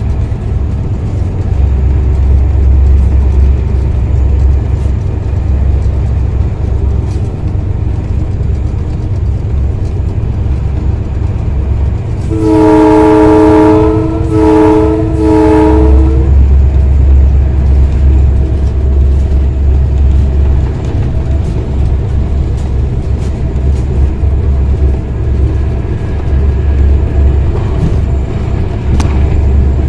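Diesel-electric locomotive running at speed, heard from the cab with a constant low rumble. About halfway through, its horn sounds one longer blast followed by two short ones.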